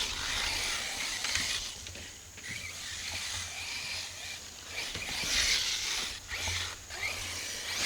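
Arrma Mojave electric RC truck driving over the course, its motor and tyres giving swells of noise that rise and fade several times as it accelerates and slows.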